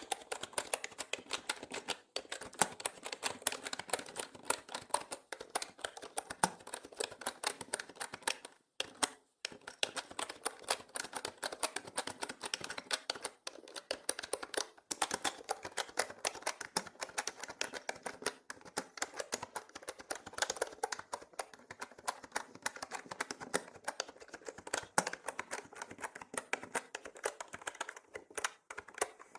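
Mechanical keyboard typing: rapid, continuous key clicks, pausing briefly about nine seconds in.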